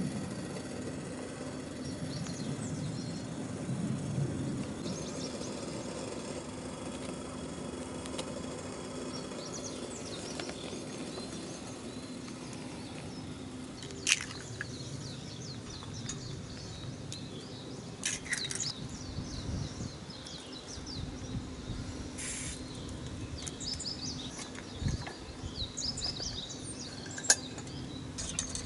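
Small birds chirping repeatedly over a steady low hum and outdoor background noise, with a few sharp knocks scattered through.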